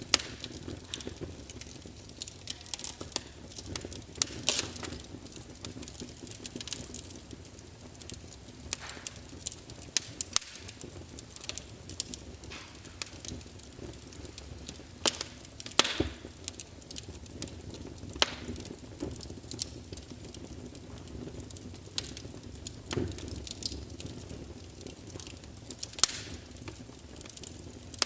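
Wood fire crackling in a fireplace: irregular sharp pops and snaps over a faint steady background.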